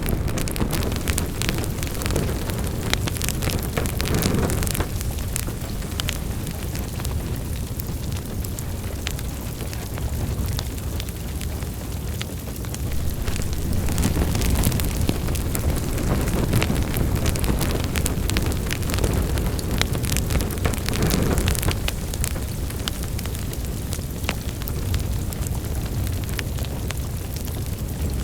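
Wood fire burning in a fireplace: a steady low rumble of flames with frequent sharp crackles and pops, and a couple of soft flame whooshes.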